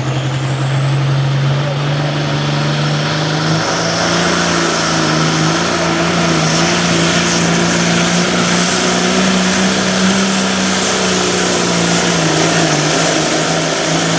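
Hot farm class diesel pulling tractor at full throttle, dragging a weight-transfer sled down the track. The engine note steps up in pitch over the first few seconds and then holds high and loud, with a high turbo whine above it.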